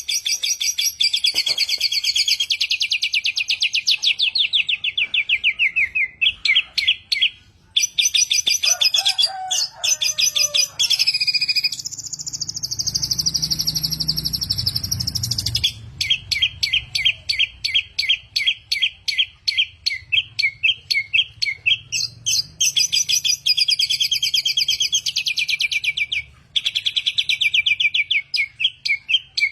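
A samyong songbird singing loudly and without pause, a varied song of rapid repeated chips and trills with a long held whistle about halfway through.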